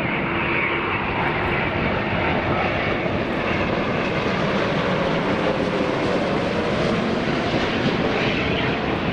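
Airliner's jet engines, a loud steady rushing noise as the aircraft passes, with a faint low whine that fades in the first second or so.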